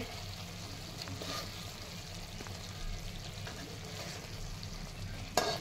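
Stuffed brinjals in masala gravy sizzling steadily in a kadhai over low heat, with a metal spatula moving them in the pan. A brief louder sound comes near the end.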